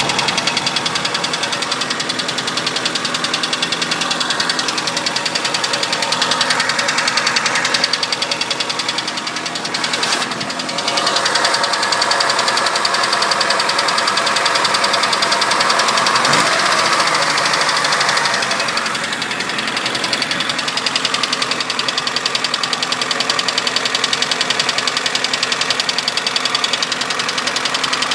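Opel Kadett engine running steadily, with a fast, even ticking rhythm through it: the strange sound the owner is showing. It dips briefly about ten seconds in, then runs a little brighter for several seconds.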